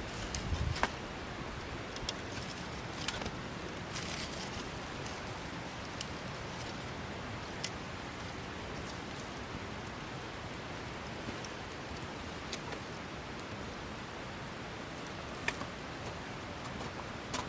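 Wood fire burning: a steady hiss with scattered sharp crackles and pops, a few seconds apart.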